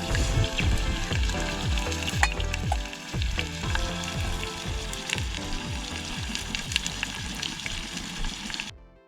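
Food sizzling and frying in a pan, with occasional stirring, under background music with a steady low beat; the sound fades away quickly near the end.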